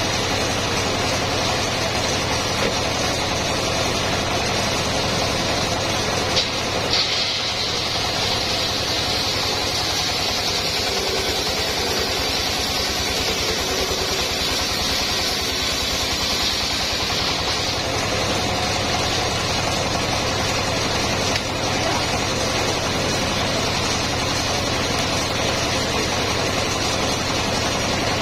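Home-built circular sawmill running steadily on its engine, with a brighter high hiss from about 7 to 17 seconds in.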